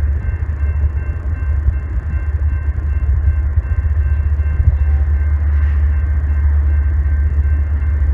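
Steady low rumble of an approaching diesel freight train, with a faint steady whine above it.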